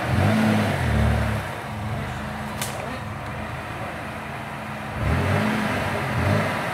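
Off-road vehicle engine revving in two surges, one at the start and one about five seconds in, with a steadier drone between them. A single sharp click sounds about two and a half seconds in.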